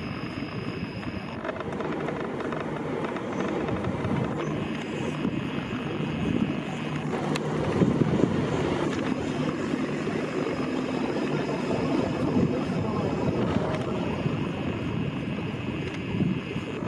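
Train passing at a station: a steady running rumble with a faint high whine that comes and goes.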